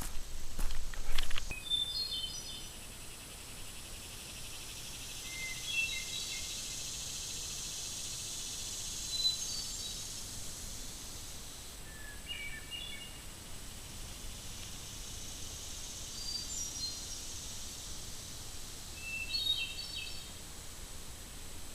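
A songbird singing short phrases of several quick, high notes, repeated every three to four seconds. A few sharp knocks sound in the first second or so, and a steady high hiss sits under the first half.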